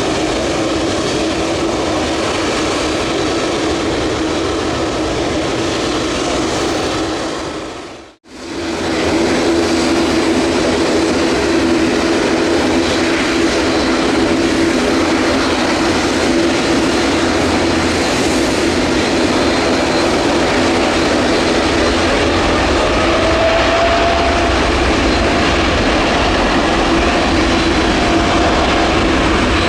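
Airliner jet engines running with a steady hum. It cuts out for an instant about eight seconds in, then the engines of a Boeing 787-9 on its departure take over, steady and a little louder, with a faint higher tone near the end.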